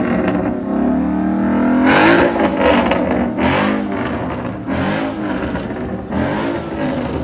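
Car engine revved hard again and again, its pitch climbing and dropping back about every second and a half.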